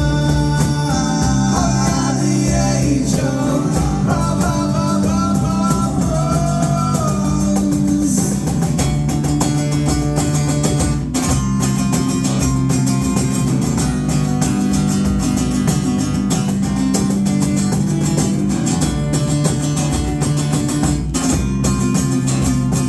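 Live band playing a guitar-led song, with sustained chords over a steady bass line and a melodic line on top for the first several seconds.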